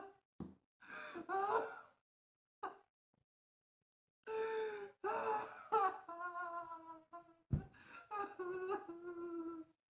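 A man breaking down, laughing and crying by turns: short gasping sobs, a pause of about two seconds, then long drawn-out wailing moans.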